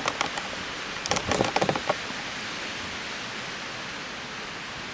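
Steady hiss of falling rain. A quick cluster of sharp clicks comes right at the start and again about a second in.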